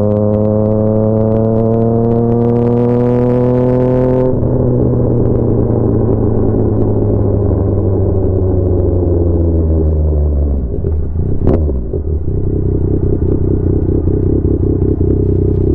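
Yamaha MT-09's inline-three engine through an SC Projects CR-T exhaust, pulling steadily with revs climbing for about four seconds, then off the throttle with the revs falling slowly as the bike slows. A sharp click comes about eleven seconds in, after which the engine settles into a low, uneven rumble.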